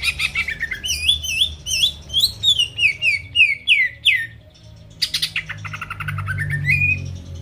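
Cucak ijo (leafbird) singing loudly: a fast buzzy trill, then a run of quick swooping whistled notes. After a short pause about four and a half seconds in comes another rapid trill that rises into a whistle near the end.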